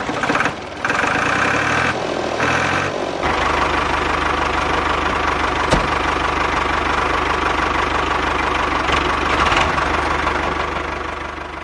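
Small engine running steadily with a rapid, even pulse, fading near the end.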